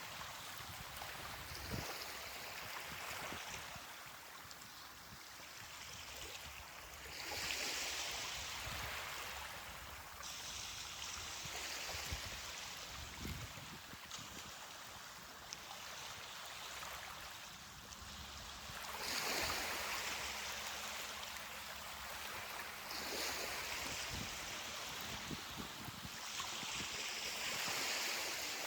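Ocean surf washing onto a beach: a steady hiss of water with waves breaking and swelling louder every few seconds, about five times.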